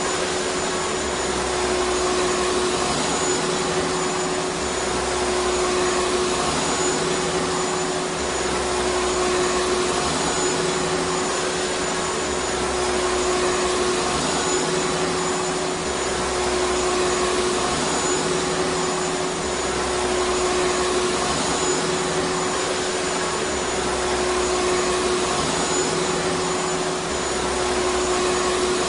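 Vacuum cleaner motor running steadily: a constant rushing hiss of air with a steady hum-like whine through it, and a low throb that swells and fades every couple of seconds.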